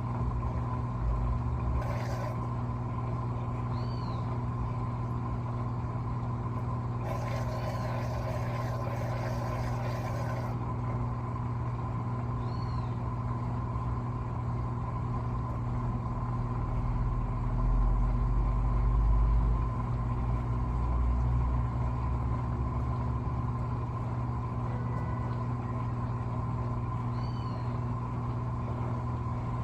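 Electrolux LTA15 top-load washing machine running with a steady motor hum. A low rumble grows louder about two-thirds of the way through.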